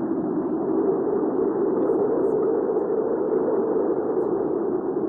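Hurricane wind ambience: a steady, low rush of storm wind that swells slightly in the middle and eases again.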